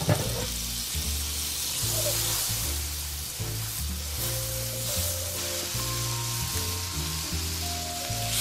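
Butter and olive oil sizzling in a hot cast-iron skillet, flaring sharply at the start as the fresh pat of butter hits the oil, then a steady hiss while it is pushed around with a spatula. Background music with a bass line plays underneath.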